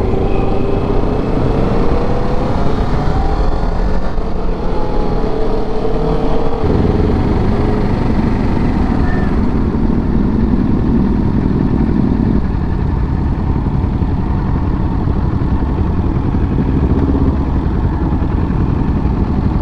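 Kawasaki Ninja 650's parallel-twin engine running under way with heavy wind rush; the engine note rises and falls through the first several seconds, then holds steadier.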